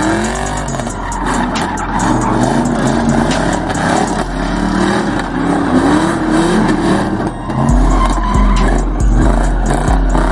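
Car engine revving up and down repeatedly over a hiss of tyre squeal, as in a burnout.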